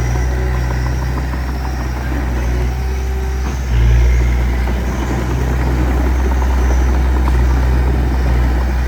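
A heavy diesel engine running steadily, getting louder for a moment about four seconds in.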